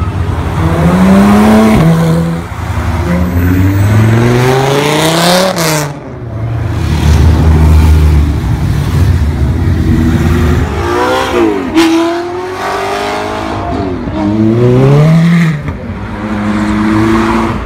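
Several supercars in turn, among them a Porsche 911 GT3 RS, a Bentley Continental convertible and a Ferrari, accelerating hard at full throttle. Each engine note climbs in pitch through the gears and drops at each upshift. The clips change abruptly a few times.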